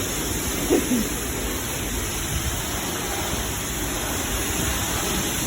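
Steady hiss of a self-serve car wash's high-pressure spray wand running, with a brief pitched sound about a second in.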